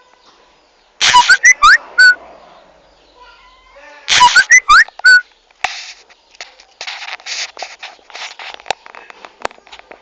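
Two loud bursts of short rising whistles, about three seconds apart, followed by several seconds of crackling, rustling noise.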